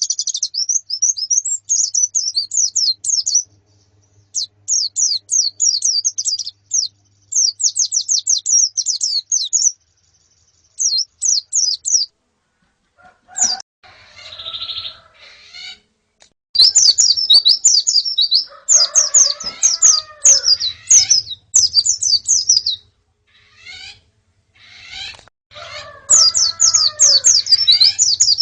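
A flock of white-eyes (pleci) chirping in runs of rapid, high chirps lasting a second or two, with short pauses between. Lower, fuller calls join in now and then.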